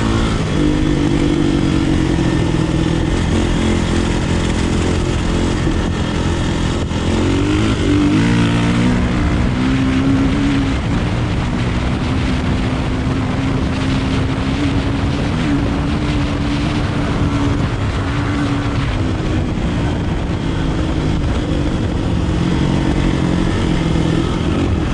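Kawasaki KLX450R dirt bike's single-cylinder four-stroke engine running on a ride, its note rising and falling with the throttle, with a sharp rise in revs about eight seconds in.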